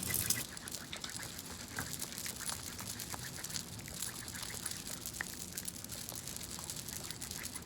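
Lotion being rubbed between hands, making many small wet, sticky clicks over a steady hiss.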